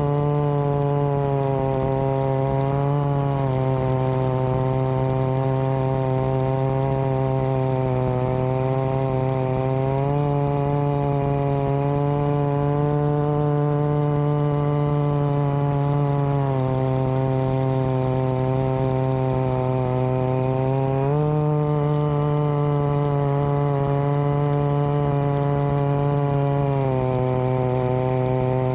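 Two-stroke chainsaw running steadily under load, ripping a log lengthwise in a chainsaw mill. Its engine note shifts between two steady pitches every few seconds as the load on the cut changes.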